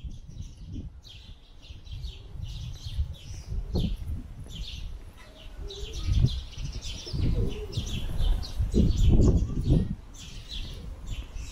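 Small birds chirping over and over in short, high notes, over an uneven low rumble that swells twice.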